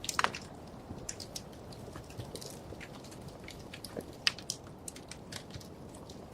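Wood fire crackling: irregular sharp pops and snaps over a low steady hiss, with a cluster of loud pops at the start and another strong pop about four seconds in.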